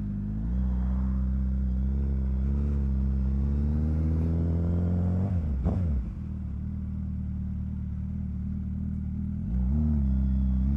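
Motorcycle engine pulling at low speed. Its pitch climbs steadily for a second or two, then drops sharply about halfway through as the throttle closes. It runs lower after that and picks up briefly again near the end.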